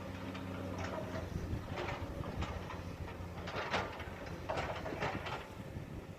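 Heavy diesel earthmoving machinery running at a steady hum, with a run of metallic clanks and scrapes in the middle and later part.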